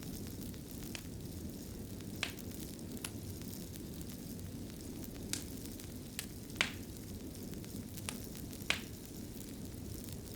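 Fire burning in a fireplace: a steady low rumble of flames with several sharp crackles and pops at uneven intervals.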